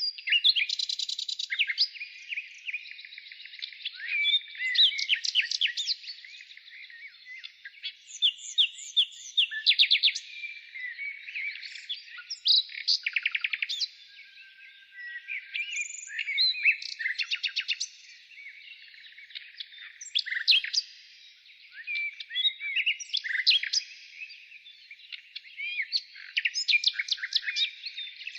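Many birds chirping and calling at once: a dense chorus of overlapping chirps, short trills and quick runs of notes, with no pause.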